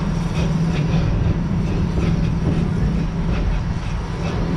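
Amusement-park safari train running along its track, heard from on board: a steady low rumble with light, evenly repeated clicking.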